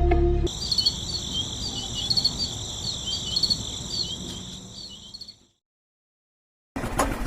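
Crickets chirping in steady high trills, fading out about five seconds in. After a short silence, a small motor starts running with a rapid, even ticking near the end.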